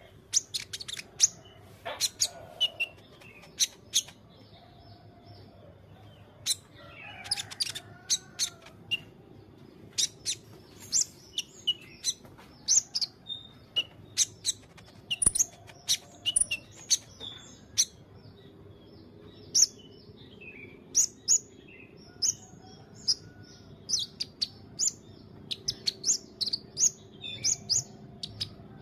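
White-rumped shama (murai batu) singing: a varied string of loud, sharp, high chirps and whistles in irregular phrases with short pauses between them.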